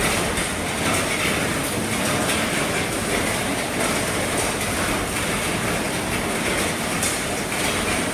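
Heavy rain falling steadily on the roof of an RV, a dense, even patter with no let-up.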